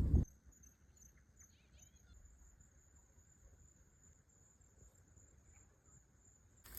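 Faint, high, steady insect trill, cricket-like, with a louder sound cutting off just after the start.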